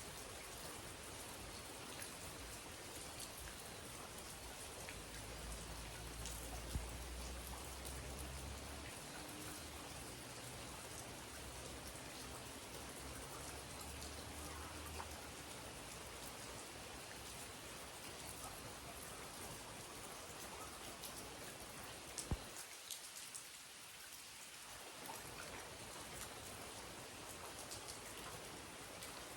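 Steady rain falling, with a few sharper drips standing out, and a faint low rumble underneath during the first half.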